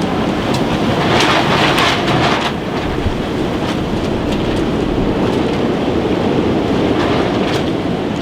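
Strong, gusty wind buffeting the microphone: a heavy, steady rumble with a louder gust in the first couple of seconds and short crackles scattered through it.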